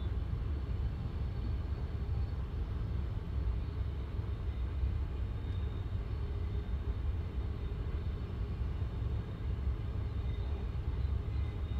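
Passenger train running at speed, heard from inside the carriage: a steady low rumble of wheels on rails with no rhythmic clatter.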